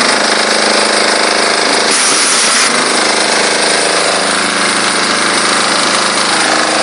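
Diesel-engine-driven high-pressure washer running steadily: the diesel engine's rattling note under the loud hiss of the high-pressure jet.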